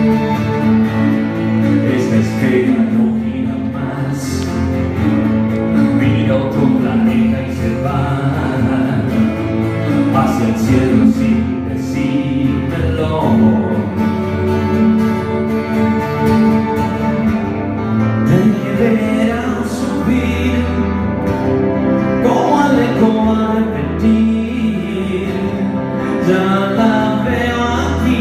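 Band music, a guitar-led instrumental introduction to a rock song, played continuously with no lyrics sung yet.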